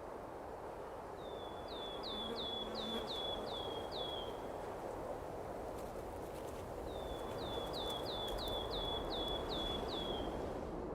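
A songbird singing two identical phrases, each a thin steady note followed by a run of about seven short, high, downward-slurred notes, over a steady outdoor background hiss.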